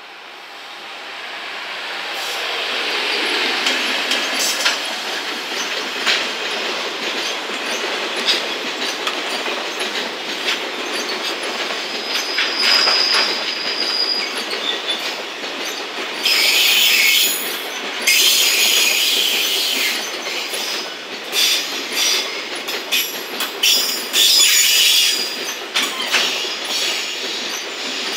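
JR Freight EF210 electric locomotive drawing near and passing, then a long freight train of container wagons rolling by: steady wheel-on-rail rumble with clatter over the rail joints, growing louder over the first few seconds. Wheels squeal at times, with a thin whistling squeal about halfway and repeated high squeals in the second half.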